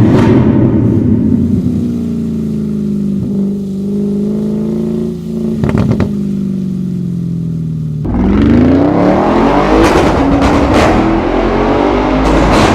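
Audi RS6's 4.0-litre twin-turbo V8 through an IPE valved exhaust, on the move. The engine note falls slowly as it eases off for several seconds, with a few sharp cracks about six seconds in. About eight seconds in it accelerates hard, much louder and rising in pitch, with more sharp cracks near the end.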